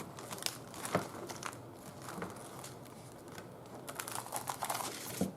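Paper crinkling and rustling, with scattered light clicks, as a journal page is pressed down onto an inked gel printing plate to pull a print.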